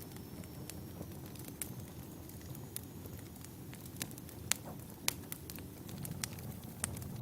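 Wood campfire burning: a steady low rumble of flames with irregular sharp crackles and pops from the firewood, the loudest two about four and a half and five seconds in.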